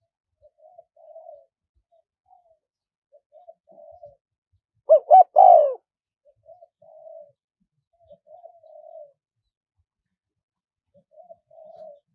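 Spotted dove cooing: short soft coo phrases repeated every second or two, with one much louder three-part coo about five seconds in.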